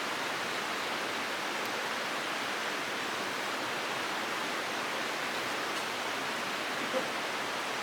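Steady, even rushing of flowing water, like a stream, with a single small click about seven seconds in.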